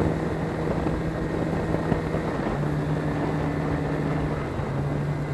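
KTM 450 XC-F single-cylinder four-stroke snowbike engine running steadily over a wash of noise, its pitch dropping slightly about halfway through and shifting again near the end.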